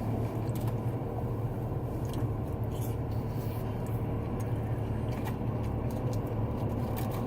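A person chewing fried mushrooms, with scattered small crunches and wet mouth clicks over a steady low hum.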